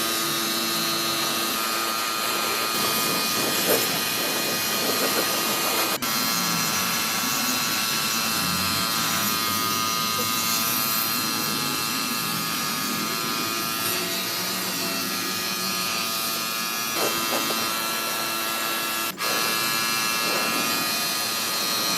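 A small electric motor running steadily with a high, even whine over a hiss, its pitch and level unchanging.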